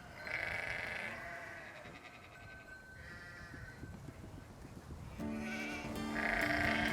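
Beagle howling in short, high, wavering calls, three times. Guitar music with sustained notes comes in about five seconds in.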